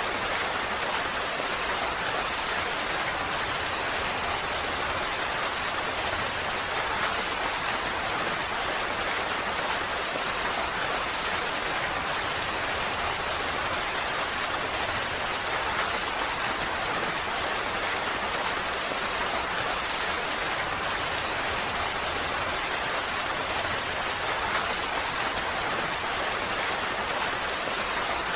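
Steady rainfall, an even hiss of rain with faint individual drop ticks, unchanging throughout.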